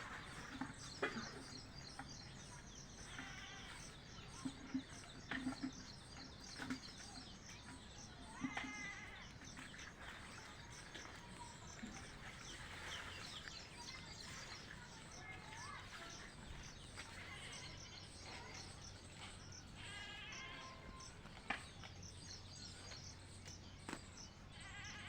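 Birds chirping and calling steadily, with a few short wavering bleats from goats or sheep and several soft thumps.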